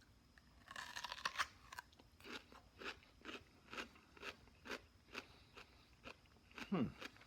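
A person biting into and chewing a crisp raw radish, heard up close: a crunchy bite about a second in, then steady chewing crunches about two a second.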